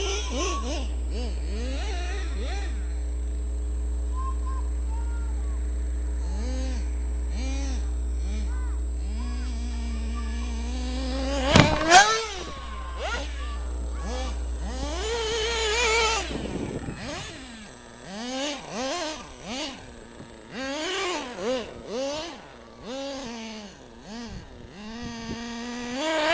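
Redcat Hurricane RC car's motor revving up and down in repeated bursts as it is driven, with two sharp knocks about twelve seconds in, as it lands a jump.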